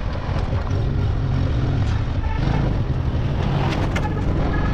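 Motorcycle on the move, a steady low rumble of engine and road noise.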